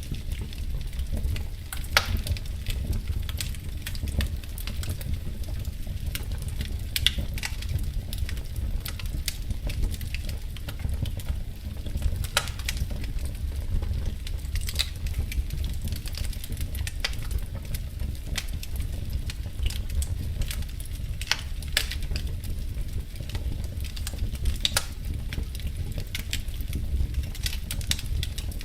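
Wood fire crackling in a fireplace: irregular sharp pops and snaps, a few seconds apart, over a steady low rumble of burning.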